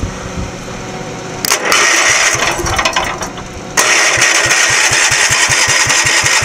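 Oil-drained Generac generator engine being started: it fires up about a second and a half in, falters, then catches again near the end and runs with an even pulsing beat.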